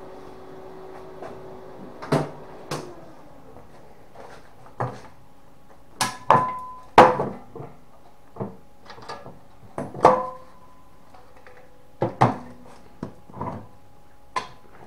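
A dozen or so irregular metal knocks and clanks, several ringing briefly, from a steel gas mask canister being handled and tapped.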